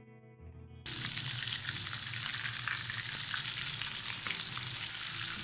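Egg-coated potato kababs shallow-frying in hot oil in a non-stick pan over medium-high heat. After a near-quiet first second, a steady sizzle starts and runs on, with light spatula scrapes and clicks as the kababs are turned.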